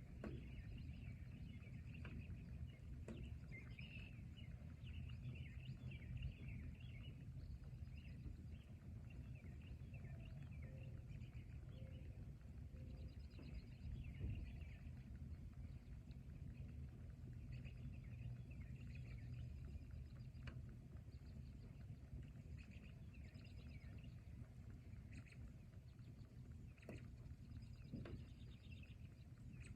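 Forest ambience: a faint steady low rumble with birds chirping here and there and a few sharp ticks.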